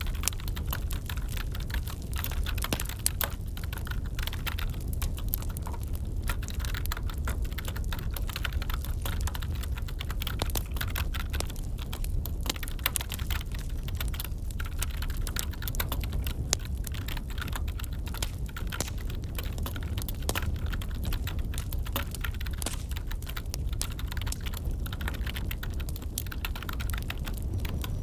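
Typing on a computer keyboard: a continuous run of irregular keystroke clicks, over the steady low rumble and crackle of a wood fire in a fireplace.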